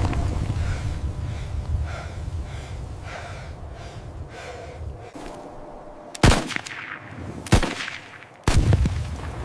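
Two rifle shots about a second and a half apart, each ringing on briefly. Under them is a low rumble that fades before the shots and comes back suddenly after them.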